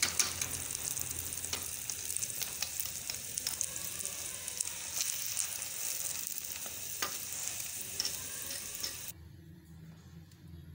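Egg paratha sizzling as it pan-fries on a flat pan, with scattered clicks and scrapes of a spatula pressing and turning it. The sizzling cuts off suddenly about nine seconds in, leaving a faint low hum.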